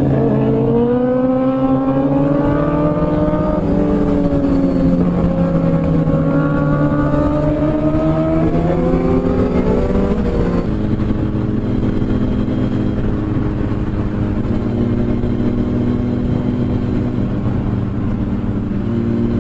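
Motorcycle engine on the move, its pitch rising and falling with throttle for about the first ten seconds, then holding a steady note.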